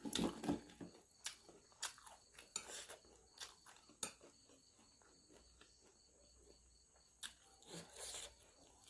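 Close-miked eating sounds: chewing and mouth smacks with scattered light clicks, busiest at the start and again near the end.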